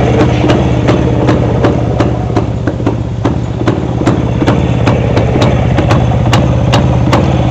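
1966 Jawa 250's single-cylinder two-stroke engine idling steadily, with sharp irregular ticks a few times a second.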